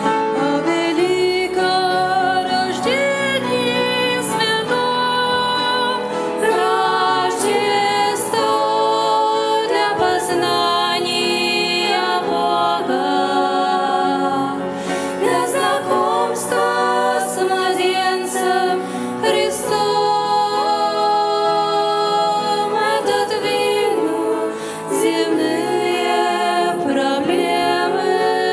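Christian song: several voices singing together over instrumental accompaniment.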